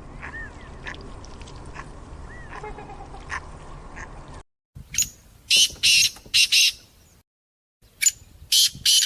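Ducks quacking. A few faint chirps over low background noise come first; from about halfway through there are two groups of loud, harsh quacks in quick succession.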